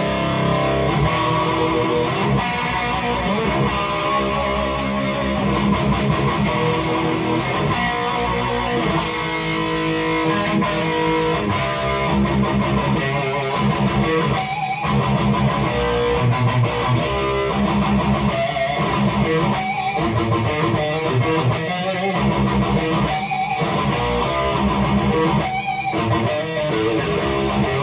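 High-gain distorted electric guitar playing riffs and chords through a REVV G3 preamp/distortion pedal in its aggressive red mode, with the guitar's volume knob turned all the way up and reverb on.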